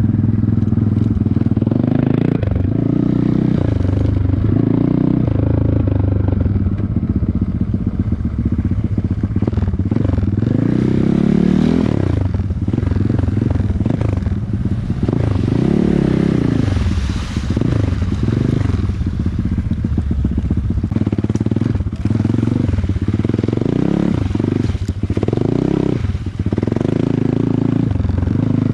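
Off-road vehicle engine revving up and down again and again while riding over rough ground, with knocks and rattles mixed in.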